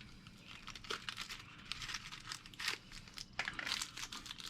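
Faint workshop handling noise: a scatter of short scrapes and clicks, as tools work a bearing out of a mini bike's rear wheel hub.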